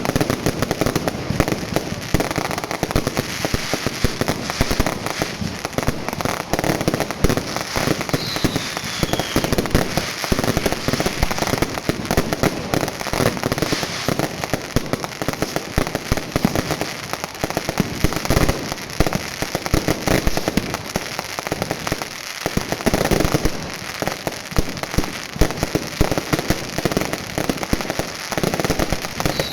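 Bonfire-night fireworks going off: a dense, continuous barrage of bangs and crackling. A short falling whistle sounds twice.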